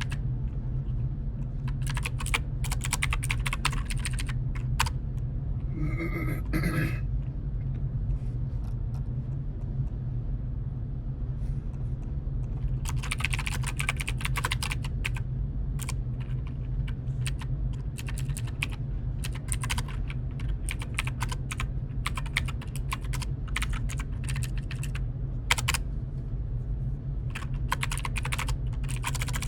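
Typing on a computer keyboard in bursts of rapid key clicks with pauses between them, over a steady low hum. A short pitched sound comes a little after six seconds in.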